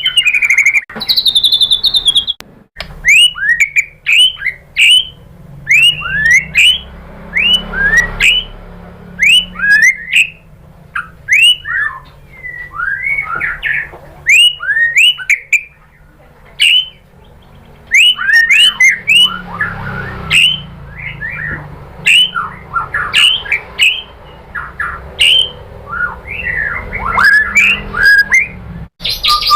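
White-rumped shama (murai batu) singing a long run of short, sharp notes that sweep down in pitch one after another with brief gaps, the rapid 'tembakan' style of shama song.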